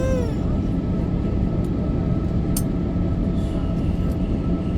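Airliner cabin noise: a steady low rumble with a constant engine whine from the jet engines running, heard from inside the passenger cabin. A brief click comes about two and a half seconds in.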